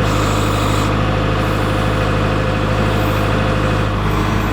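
Kubota L47 tractor-loader-backhoe's diesel engine running at a steady speed.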